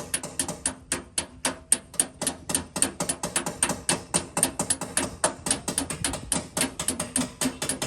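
Rapid, light tapping on car body sheet metal, about six taps a second: paintless dent repair tap-down work, knocking down high spots around the dent one tap beside another.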